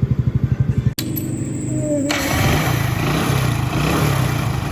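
Hero Splendor's single-cylinder engine running: even, regular idle pulses, then about a second in an abrupt cut to a steadier, rougher run of the engine.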